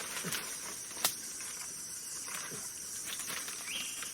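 Steady high-pitched insect chorus, with one sharp knock or snap about a second in.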